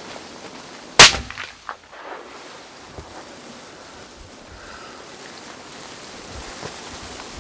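A single loud deer-rifle shot about a second in, its report echoing away for about a second, over steady wind noise.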